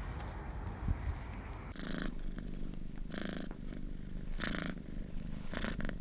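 Domestic cat purring close up, starting about a second and a half in and rising and falling with each breath, about one breath every second and a quarter.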